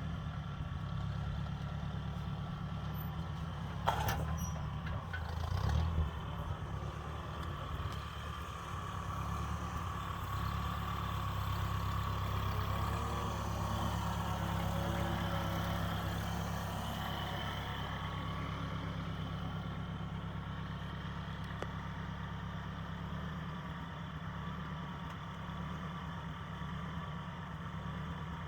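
1956 Ford 640 tractor's four-cylinder engine running steadily, getting somewhat louder in the middle. There is a sharp metallic knock about four seconds in, followed by brief clatter.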